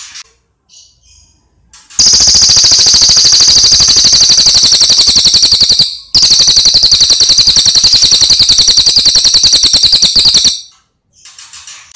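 Songbird chirping briefly, then about two seconds in breaking into a very loud, high, rapid machine-gun-like trill. The trill breaks off for an instant and resumes, then stops a second and a half before the end, after which short chirps return.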